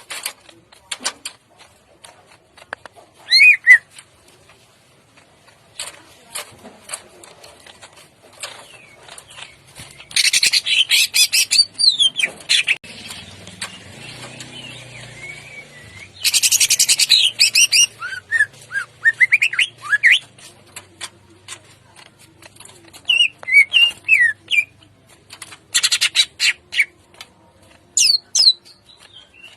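Greater green leafbird (cucak ijo) singing: loud bursts of rapid, harsh rattling notes, the longest a second or two each, about ten and sixteen seconds in. Short whistled notes glide up and down in pitch between the bursts.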